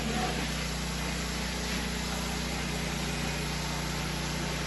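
Engine-driven pressure washer running steadily at an even pitch.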